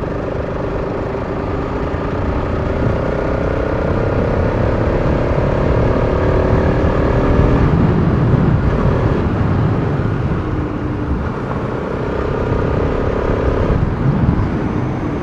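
Bajaj Pulsar RS200's single-cylinder engine running under way, its pitch rising slowly as it pulls for the first half, then dropping off about halfway before pulling again, with wind and road noise throughout.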